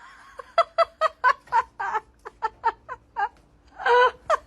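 A person laughing in a rapid run of short, high-pitched giggles, about four a second, with a longer, louder burst near the end.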